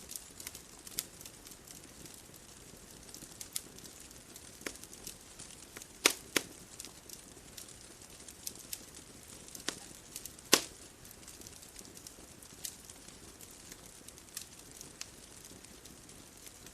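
Wood fire crackling: a soft hiss with irregular sharp pops and snaps, two louder pops about halfway through.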